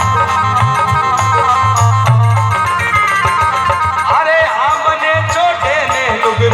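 Rajasthani devotional folk bhajan music. A plucked-string instrumental line runs over a steady, pulsing bass, and about four seconds in a voice enters singing a wavering, ornamented melody.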